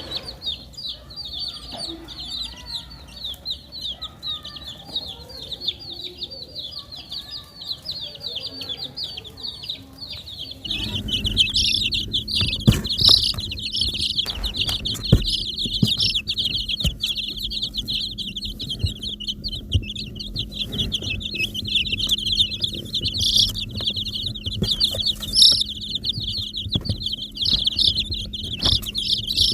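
A brood of baby chicks peeping, many quick high-pitched peeps overlapping without pause. About eleven seconds in the peeping gets louder and a steady low hum joins underneath.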